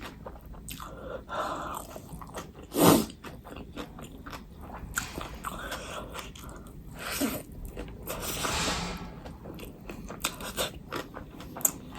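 Close-miked eating: a person chewing and biting food with wet mouth clicks and crunches, and one much louder bite about three seconds in.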